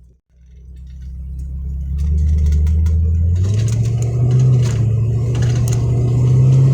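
Car engine heard from inside the cabin, picking up speed: it grows louder and its pitch steps up about two seconds in and again around three and a half seconds in.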